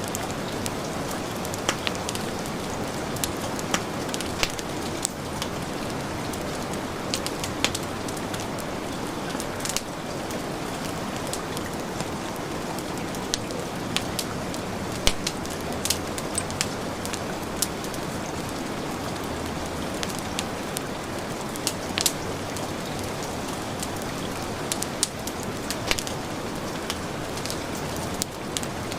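Heavy rain falling steadily, with a wood fire crackling and popping in sharp, irregular snaps over it.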